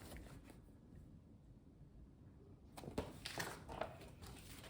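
Near silence: quiet room tone, with a few faint short clicks and rustles about three seconds in.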